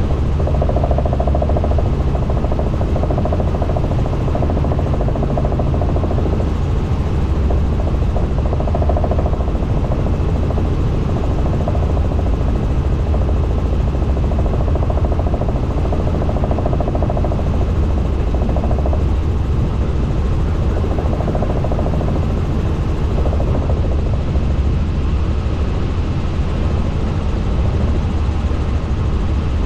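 Helicopter in flight, heard from on board: a steady, loud drone of rotor and engine that does not let up.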